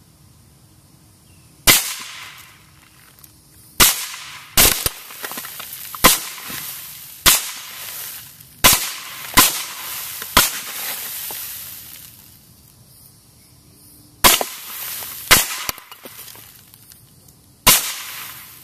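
Suppressed .300 Blackout rifle firing 208-grain subsonic rounds through an AAC SDN-6 suppressor. There are about eleven sharp shots at uneven intervals, each with a short fading echo: eight in the first ten seconds, then a pause of about four seconds, then three more.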